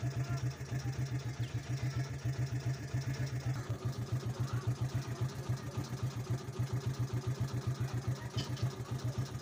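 Motorcycle engine idling with a steady, even putter.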